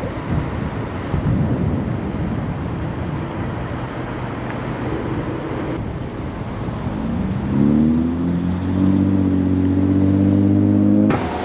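Wind and road noise from riding a scooter through city traffic. About seven seconds in, a nearby motor vehicle's engine drone rises in pitch and holds steady, then cuts off abruptly near the end.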